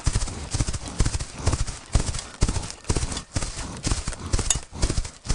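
Horse's hooves clip-clopping on hard ground, a run of sharp hoof strikes a few times a second.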